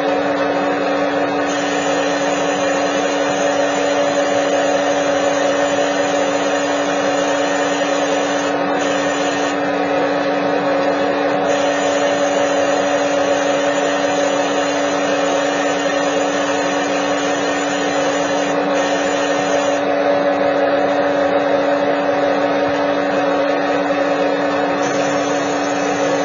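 Steady machine hum from a running motor, holding one constant pitch with no change in speed or level.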